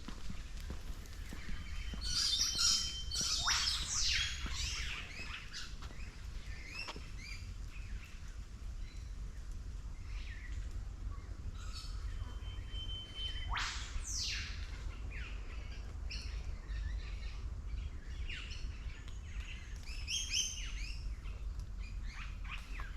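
Wild birds calling and singing in garden bushland, many chirps and whistles overlapping. Two loud sweeping calls stand out, one about four seconds in and another about fourteen seconds in, each coming just after a short held whistle.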